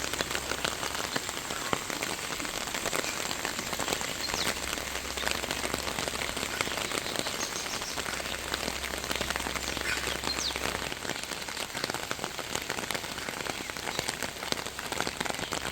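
Steady rain falling, a continuous patter of many raindrops hitting surfaces.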